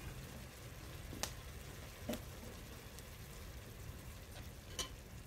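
Onion and tomato frying in oil in an aluminium pot: a faint, steady sizzle with a few soft ticks and pops.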